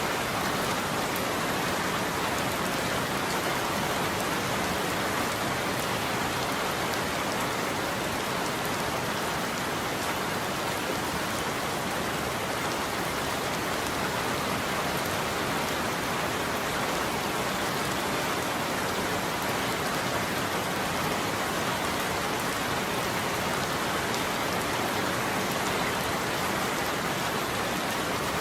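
Steady rain falling on a roof: an even, unbroken hiss with no thunder.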